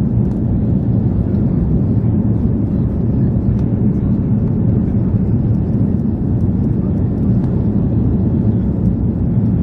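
Airbus A340-300's four CFM56 jet engines running, a steady low rumble with no rise or fall.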